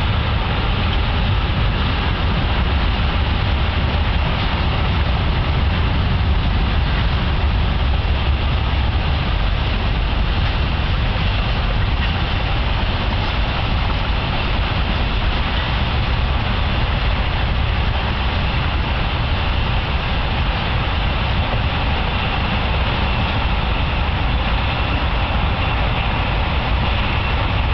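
A BNSF Z-train, an intermodal freight, rolling past at speed, giving a steady rumble of wheels on rail.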